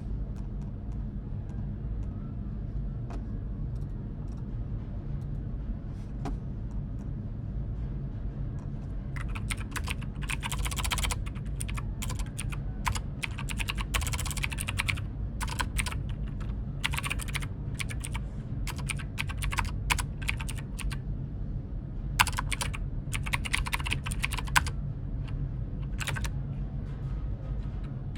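Typing on a computer keyboard: a few isolated key clicks at first, then quick bursts of keystrokes from about a third of the way in, over a steady low hum.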